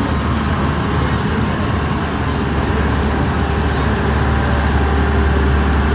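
Tractor engine running with a deep, steady rumble as it passes close by.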